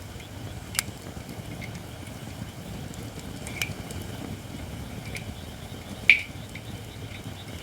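Japanese white oak (shirakashi) logs burning in a campfire: a steady low rush of flame with sharp crackles about five times, the loudest about six seconds in. The logs are not yet fully dry.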